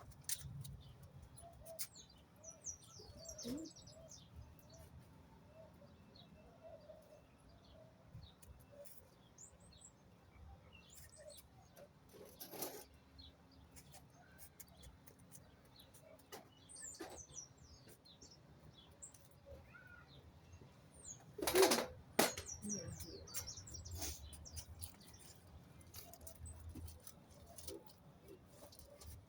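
Small birds chirping and twittering softly and intermittently, with scattered light clicks. A short, louder rustling flurry, like wings flapping, comes about 21 seconds in.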